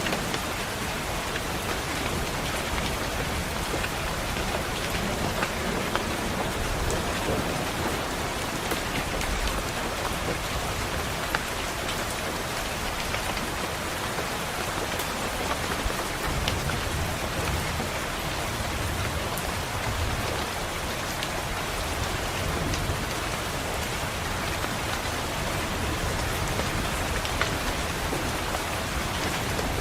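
Steady rain pattering on a window pane, with low thunder rumbling faintly now and then.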